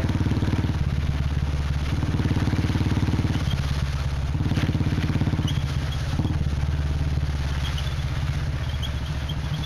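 Royal Enfield Bullet 350's single-cylinder engine idling steadily with an even beat, through an aftermarket 'Punjab dholki' silencer.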